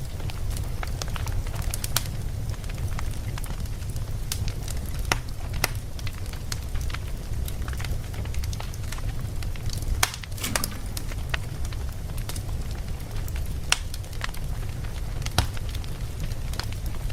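Wood fire burning, with a steady low rumble of flames and irregular sharp crackles and pops, a quick cluster of them about ten seconds in.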